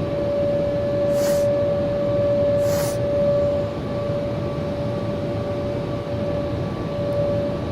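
Automatic car wash machinery heard from inside the car: a steady droning rumble with a constant whine, and two short hissing bursts about one and three seconds in.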